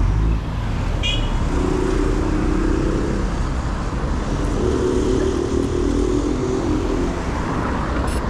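Motor traffic passing close to a bicycle on a busy road: two vehicles go by, their engines humming for a second or two each, over a constant low rumble.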